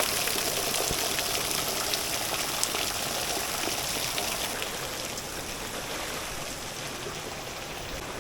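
Small mountain waterfall on a creek: steady rushing and splashing of falling water, gradually growing quieter and duller in the second half.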